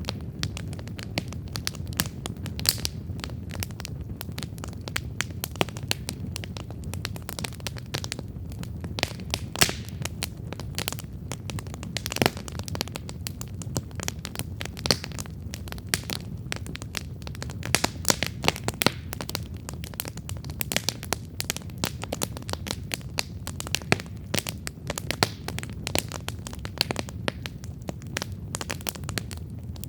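Wood campfire burning and crackling: a steady low rumble of flames under irregular sharp pops and snaps from the burning wood.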